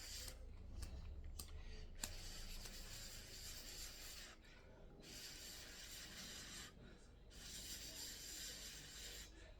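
A person blowing on a spoonful of hot food to cool it: several long, breathy blows with short pauses between them, and a small click about two seconds in.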